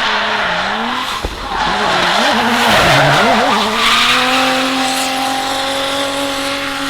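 Drift car's engine on track, its revs bouncing quickly up and down on the throttle for a couple of seconds, then held at a steady high pitch, over a steady hiss of tyres sliding.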